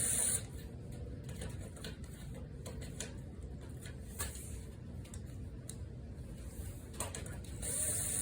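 Hand work on a tractor's grass shield: scattered clicks and knocks of tools and parts being handled, with a short high hissing burst at the very start and another lasting about a second and a half near the end.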